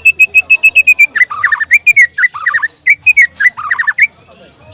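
White-rumped shama (murai batu) singing loudly: a fast run of about ten clear whistled notes a second, then varied whistled phrases with some falling notes, stopping about four seconds in.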